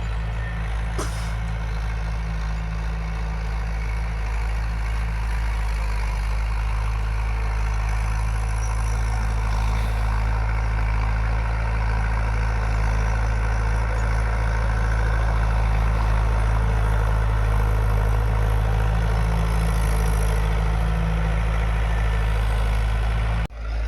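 Tractor's diesel engine running steadily with a low, even hum, getting a little louder partway through; it cuts off abruptly near the end.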